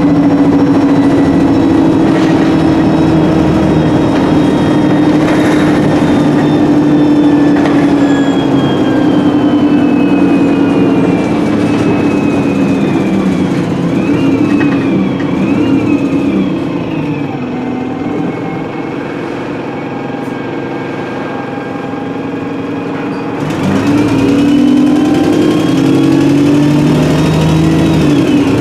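ADL E30D bus diesel engine and Voith 4-speed automatic gearbox heard from on board, through a blown exhaust. It pulls steadily at first, then eases off with a falling gearbox whine and runs quieter for several seconds, before pulling away hard about 23 seconds in with a rising whine.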